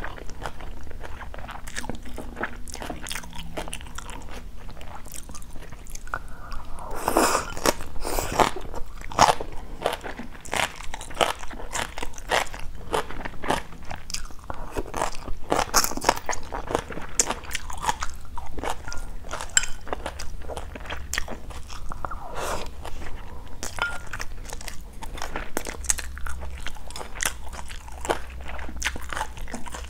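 Close-miked chewing and crunching of food in the mouth: bites of crisp stir-fried water spinach and rice, a steady run of short crunches and wet chews.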